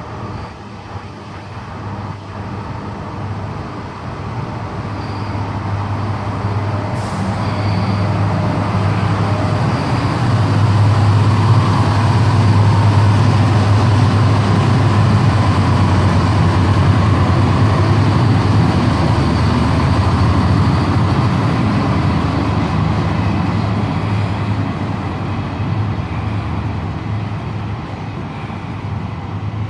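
CPH diesel railmotor set, CPH 24 leading, moving off along the platform with its diesel engines running: a deep, steady engine hum that grows louder over about ten seconds, then slowly fades.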